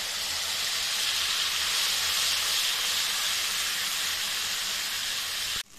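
Wet onion-cashew paste sizzling in hot oil in a nonstick kadhai as it is tipped in and stirred: a steady hiss that cuts off suddenly near the end.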